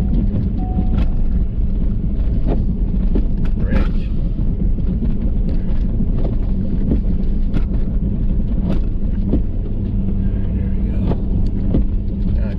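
Ford F-350 plow truck running steadily under load as it pushes snow with its Boss plow, heard inside the cab as a low drone. Scattered sharp knocks and clicks come through every second or two.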